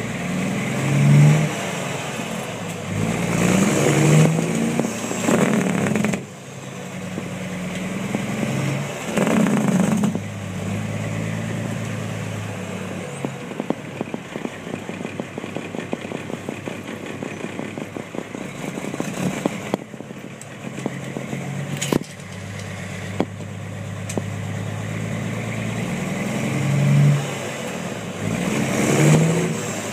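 Straight-piped 350 hp Caterpillar diesel of a Kenworth T400 truck running loud, rising in several surges of revs: about a second in, around four and nine seconds, and twice near the end. A stretch of rapid crackling runs through the middle.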